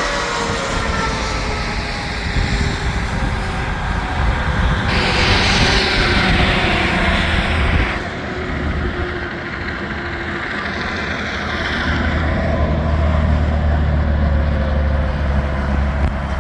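Highway traffic of semi trucks passing at speed: tyre and engine noise whose pitch falls as they go by. About five seconds in comes a loud rush that lasts some three seconds, and a deep engine drone fills the last few seconds.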